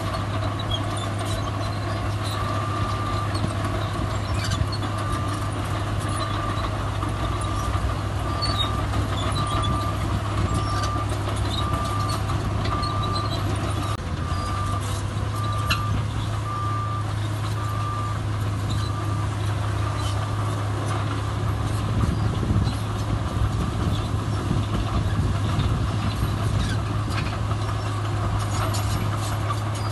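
Heavy diesel earthmoving machinery running steadily, with a reversing alarm beeping about once a second from a few seconds in until about two-thirds of the way through, when it stops.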